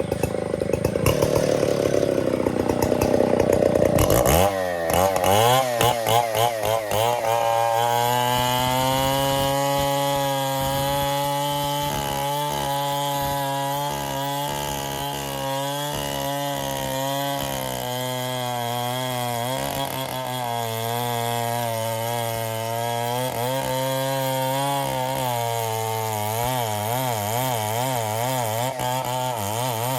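Stihl 070 two-stroke chainsaw running at high revs while cutting ironwood. For the first few seconds the sound is dense and rough; about four seconds in it settles into a steady, high engine note that wavers slightly in pitch as the load shifts.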